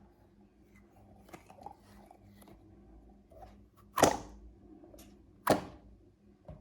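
A stress toy being cut open: a few small clicks and rustles, then two loud, sharp, crunchy snips about a second and a half apart.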